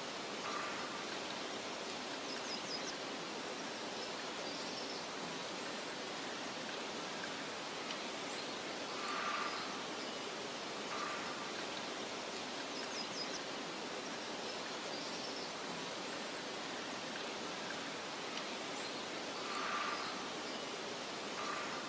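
Steady soft hiss of outdoor nature ambience, like wind through grass. A short two-part call comes about every ten seconds, twice in all, and faint high chirps sound now and then.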